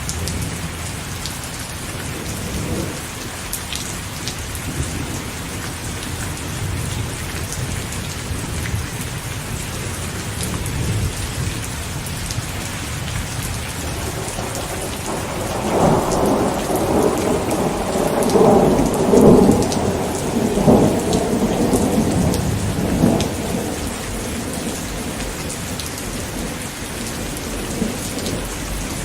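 Steady rain falling, with a roll of thunder that swells about halfway through and rumbles for several seconds before fading back into the rain.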